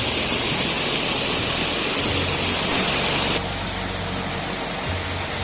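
Small waterfall pouring into a rock pool: a steady rush of falling water. About three and a half seconds in, it cuts abruptly to a quieter, duller rush.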